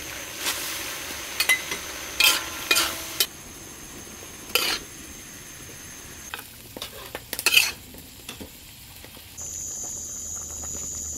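Beef and beef organs frying in a wok: a steady sizzle broken by several sharp scrapes and clinks of a spatula against the pan.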